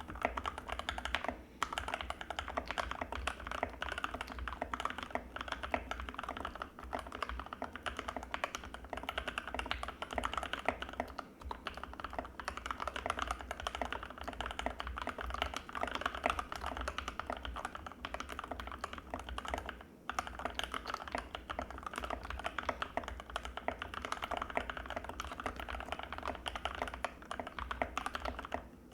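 Fast, continuous typing on an Anne Pro 2 mechanical keyboard with Gateron Red linear switches, a creamy keystroke sound, broken by a few brief pauses.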